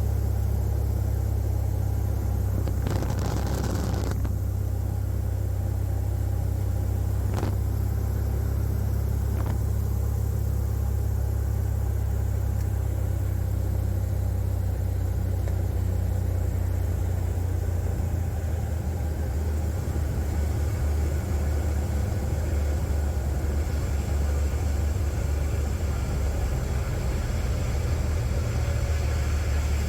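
Cessna 182's piston engine and propeller droning steadily, heard inside the cabin, with a brief rush of noise about three seconds in and a couple of faint clicks.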